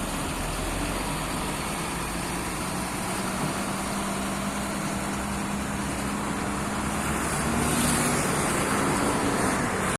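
Large truck running on the road, with engine drone and road noise; a steady low engine tone holds through the middle few seconds.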